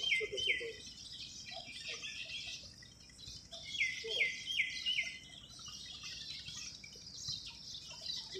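Birds calling. One bird gives quick runs of about four short falling notes, at the start and again about four seconds in, over a steady background of many high chirps from other birds.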